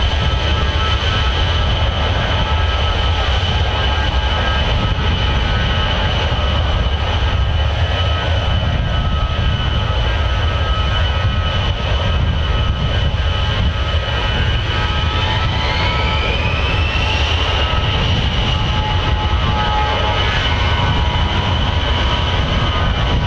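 Aircraft engines running steadily: a loud, unbroken rumble under a constant high whine. About fifteen seconds in, another whine rises quickly in pitch as an engine winds up.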